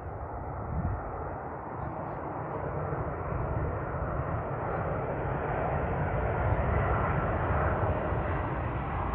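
Arriving ANA Boeing 787-8 Dreamliner's Rolls-Royce Trent 1000 jet engines: a steady jet noise that grows gradually louder as the airliner comes in to land.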